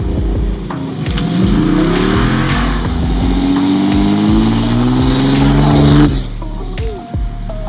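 Muscle car engine accelerating hard, its pitch climbing for about three seconds with a high whine rising along with it, then cutting off abruptly about six seconds in.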